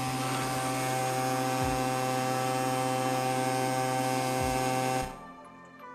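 Casdon Hetty toy vacuum cleaner's small battery-powered suction motor running with a steady hum, cutting off suddenly about five seconds in.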